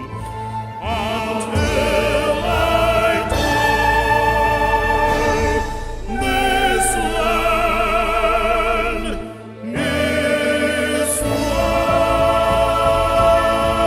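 Singers with accompaniment holding the long closing notes of a song, the voices wavering with vibrato. A brief break about nine and a half seconds in, then a last long sustained chord.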